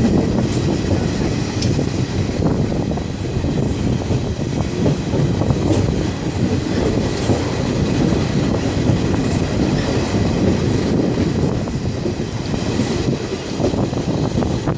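Passenger train running on the rails: a steady low rumble of the wheels and carriages, with a few faint ticks.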